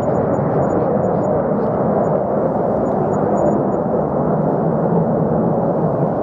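Fighter jet engine noise: a steady, deep, rumbling rush that holds even throughout.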